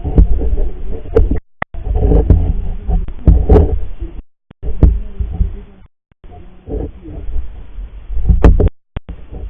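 Muffled low rumbling and knocking picked up by an action camera's microphone inside its waterproof housing while it is underwater, with a few sharp clicks and several brief dropouts where the sound cuts out entirely.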